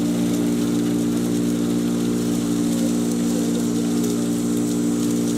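Patriot 1.5-HP electric chipper shredder running steadily: an even motor hum with a continuous hiss above it and a few faint ticks.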